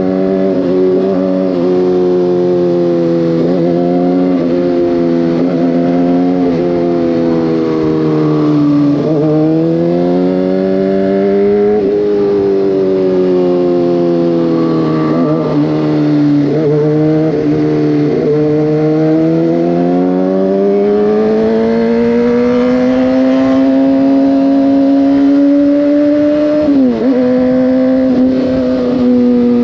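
Motorcycle engine running at road speed, its pitch slowly rising and falling as the throttle is rolled on and off through curves, with a few sharp dips where gears change. A steady rushing noise lies underneath.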